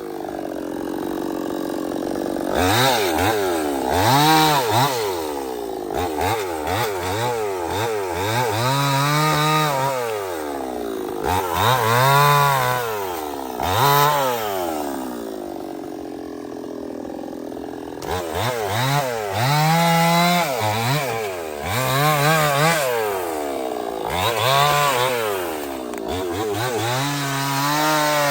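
Large two-stroke chainsaw, a Stihl 070, revved up and down over and over, its engine pitch climbing and falling about a dozen times. Near the middle it settles to a lower, steadier run for a few seconds.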